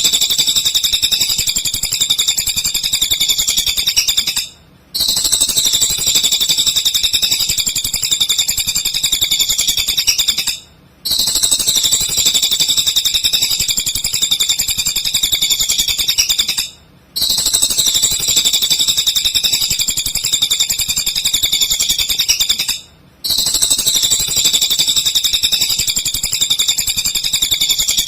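Cililin songbird singing a fast, high-pitched chattering song. It repeats in runs of about six seconds, each broken by a short gap, as a looped recording.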